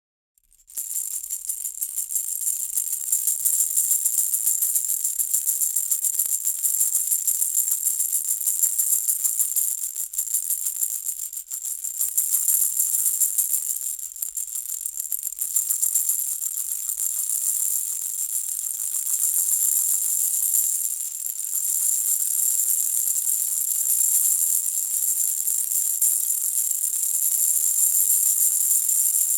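Baby rattle toy shaken continuously, a dense, bright, high jingling that breaks off for under a second at the start and then runs on without a pause.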